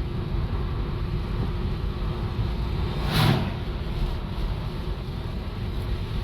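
A vehicle driving along a road, heard from inside: steady engine and road rumble. About three seconds in there is a brief, louder rush of noise.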